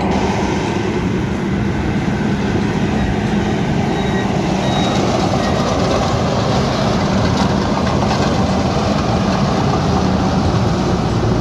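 Rice combine harvester's engine running steadily with a constant low hum, drowning out everything else.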